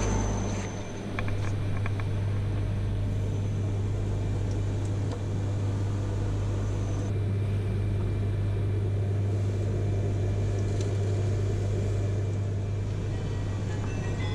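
Steady running noise inside the passenger cabin of a JR East E3 series Shinkansen train under way: an even rumble with a strong low hum, unchanging, with a few faint ticks near the start.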